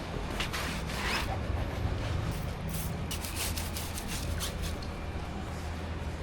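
A quick run of short rubbing or wiping strokes against a surface, typical of working over a car's body by hand during a wash, over a steady low hum.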